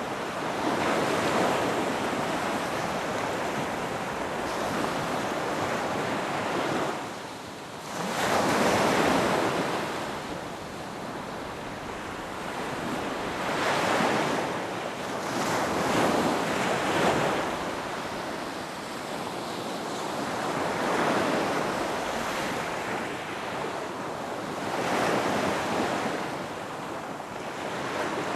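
Ocean surf breaking on a beach, the wash of the waves swelling and easing every few seconds, with a short lull about a third of the way through.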